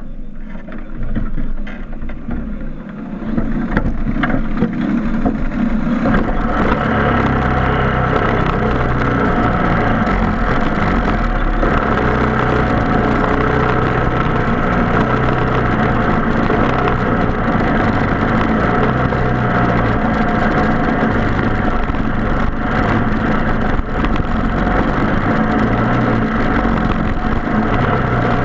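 Briggs & Stratton Animal single-cylinder four-stroke kart engine running at race speed. It is quieter for the first few seconds, then loud and steady from about four seconds in.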